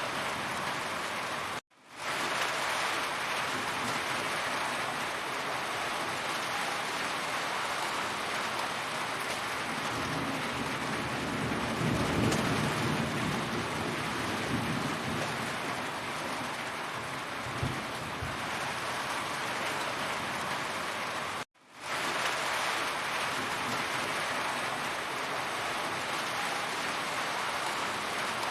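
Heavy rain falling, a steady dense hiss of raindrops, with a low rumble swelling and fading around the middle. The sound cuts out abruptly twice, about two seconds in and again about twenty-one seconds in, and fades back in each time within half a second.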